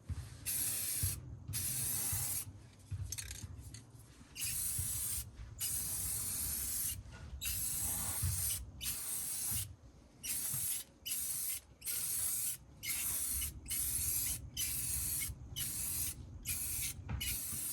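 Aerosol spray paint can spraying in repeated bursts, a high hiss that starts and stops over and over, the bursts getting shorter and quicker in the second half.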